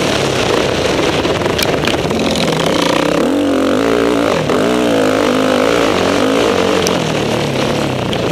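A motocross bike's engine heard from on the bike while racing, its pitch rising and falling over and over as the rider works the throttle and gears. It drops briefly about four and a half seconds in, then climbs again.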